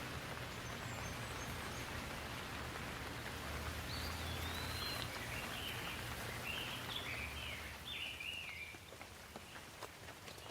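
Steady rain falling, with a bird chirping a short run of calls through the middle. Near the end the rain eases and single drops are heard tapping.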